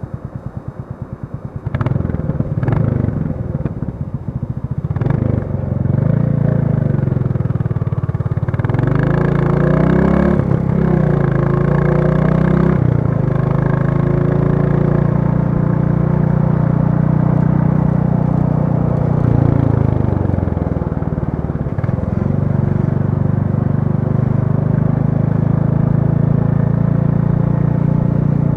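Royal Enfield Classic 350's single-cylinder engine idling with an even beat, then pulling away and accelerating. Its pitch climbs and drops back a few times as it goes up through the gears, then holds steady.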